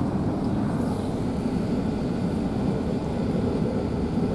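Steady low rumble inside an Airbus A380 passenger cabin after landing.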